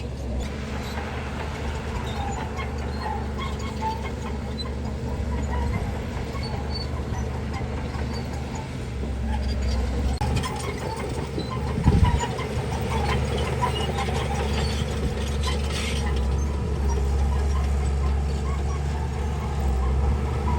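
Heavy diesel engine of earthmoving equipment running steadily, with a sudden low thump about twelve seconds in.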